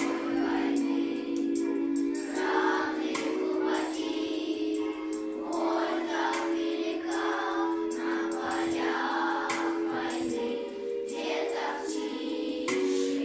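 School children's choir singing over an accompaniment of long held chords.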